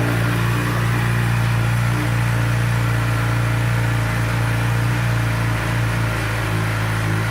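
2012 Suzuki GSX-R600's inline-four engine idling steadily through a Two Brothers Silver Series aftermarket exhaust.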